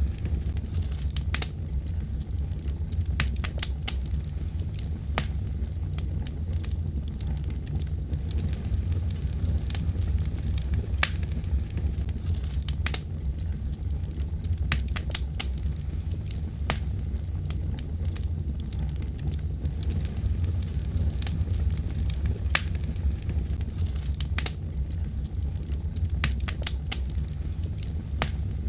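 Wood fire burning with a steady low rumble and irregular sharp pops and crackles scattered throughout.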